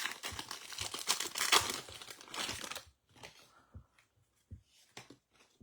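Crinkling and rustling of a plastic trading-card pack wrapper for about three seconds, then a few light taps as cards are handled.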